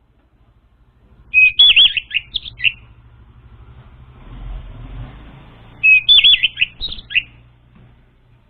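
Orange-headed thrush singing: two short phrases of clear whistled notes with quick warbled slurs, about four seconds apart. A low rumble swells and fades between the phrases.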